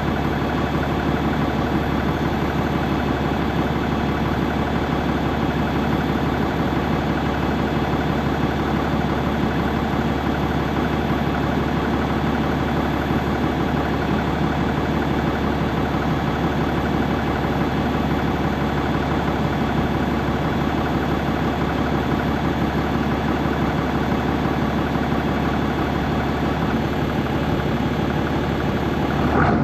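Farm tractor engine running at a steady speed, with dense mechanical noise.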